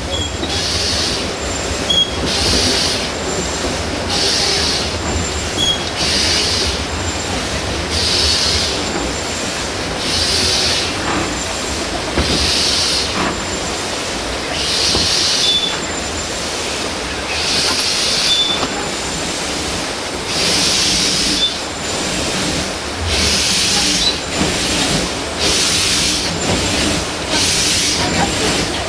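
Narrow-gauge steam train running on the track: steady rumble with a recurring hissing rattle, spaced about every one and a half seconds at first, stretching to nearly three seconds apart, then coming quicker again near the end. Short high wheel squeals are heard a few times.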